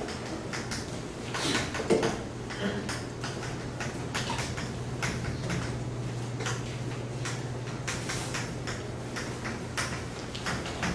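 Writing on a classroom board: a long run of short taps and scratches, over a steady low hum.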